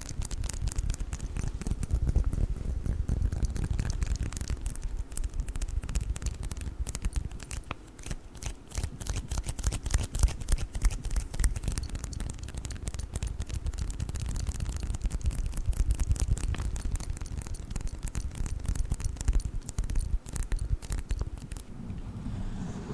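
Sticky lint roller being worked, its adhesive sheet crackling in dense, rapid crackles over a low rumble.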